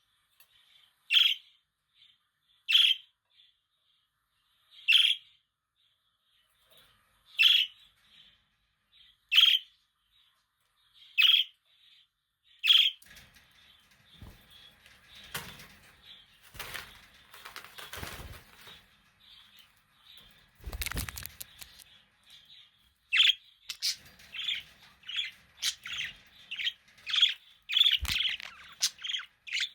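Budgerigars chirping: single loud chirps about every two seconds, then a stretch of rustling and scuffling with a few louder low knocks in the middle, then faster, busier chirping near the end.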